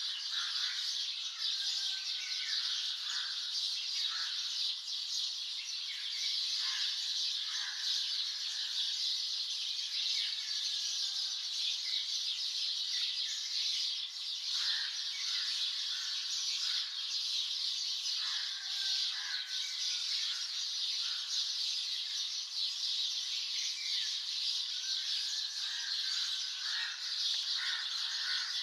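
Morning chorus of many birds chirping and calling over one another: a dense, steady high chirring with many short separate calls scattered through it.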